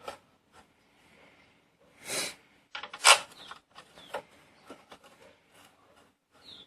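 Handling clicks and scrapes as the motorcycle's front brake caliper bolts are fitted back in by hand, with a short rasping scrape about two seconds in and a sharp click about a second later.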